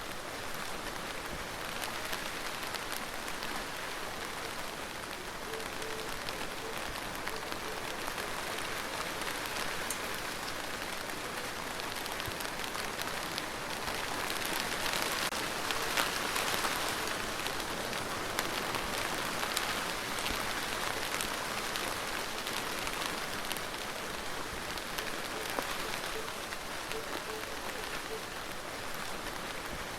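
Rain falling steadily on a surface, a dense hiss speckled with the ticks of individual drops, swelling a little louder about halfway through.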